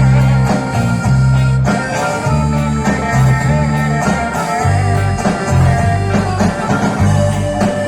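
Instrumental passage from a live pop band, with guitar over a bass line that steps between notes about once a second; no singing.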